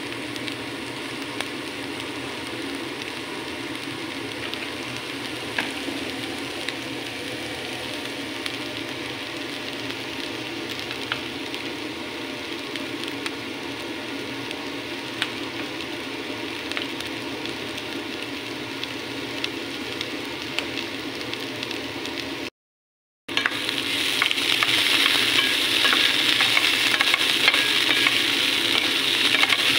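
Sliced chicken and onions sizzling steadily in a nonstick frying pan, with scattered small pops. After a brief break about three quarters of the way through, the sizzling is louder and brighter, and a spatula stirs and scrapes the food around the pan.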